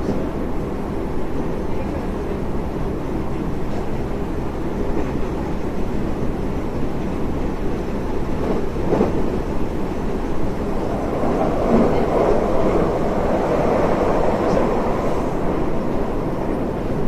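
Steady rumble of an electric rapid train running at speed, heard from inside the carriage: wheels on rail and running gear, growing louder about twelve seconds in.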